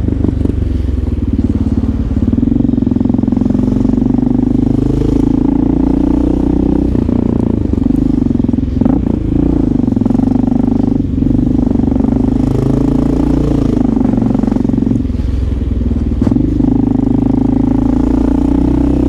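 Motorcycle engine running steadily while cruising, its pitch drifting slightly up and down with the throttle.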